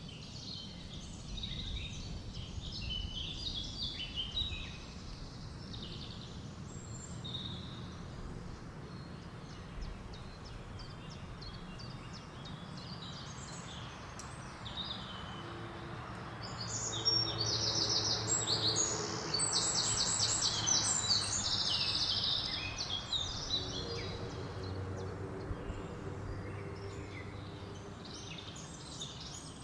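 Several songbirds chirping and singing in a forest, with one louder song of rapidly repeated notes about halfway through, over a low, steady rush of wind.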